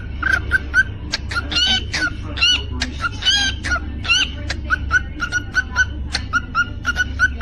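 Cockatiel chirping in short repeated notes, about three or four a second, with a few longer warbling whistles mixed in. A steady low hum runs underneath.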